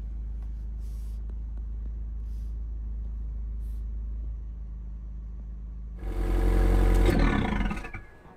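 Abarth F595C's 1.4-litre turbocharged four-cylinder engine idling steadily, heard from inside the cabin. About six seconds in comes a much louder rev from the exhaust that falls in pitch and dies away.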